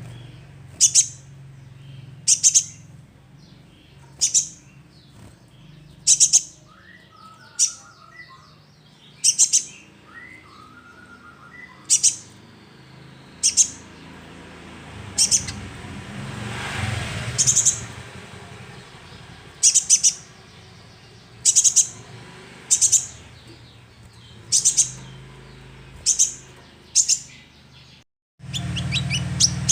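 Young sunbird giving short, sharp, very high calls, one about every one and a half seconds, played as a lure call to draw other birds into song. Near the end the calls speed up into a quick run of chirps.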